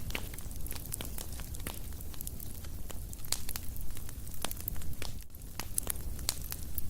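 Wood fire crackling: irregular pops and snaps over a low steady rumble.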